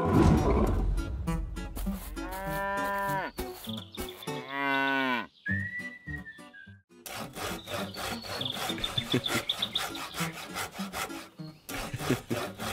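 A loud low rumble, then a cow mooing twice, two drawn-out calls. After a short high tone, a hand saw cuts through a wooden log in quick, rasping strokes until the end.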